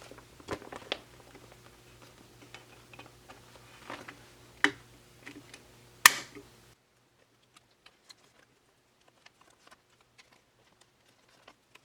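Plastic photocard sleeves and binder pages being handled: scattered soft taps and clicks, with two sharper clicks about four and a half and six seconds in. Just before seven seconds the steady background hum drops away and only faint ticks remain.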